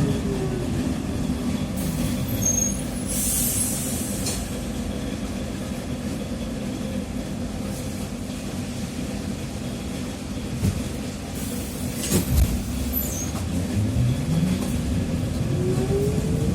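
TrolZa-5275.05 Optima trolleybus drivetrain, its DK-213A traction motor and Ishimbay rear axle, whining down in pitch as it slows. About three seconds in comes a short hiss of compressed air, then a couple of knocks. The whine rises again near the end as it pulls away.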